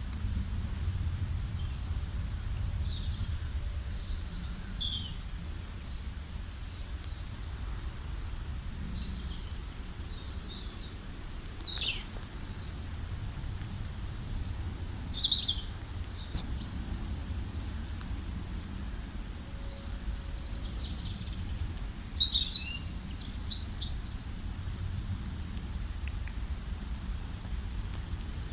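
Wild songbirds chirping and trilling in short high-pitched phrases, with livelier bursts of song a few times, over a steady low rumble.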